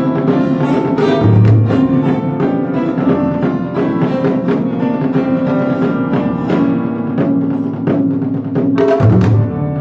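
Live instrumental music: deep taiko drum strikes, about a second in and again near the end, over a run of struck piano and plucked acoustic guitar notes.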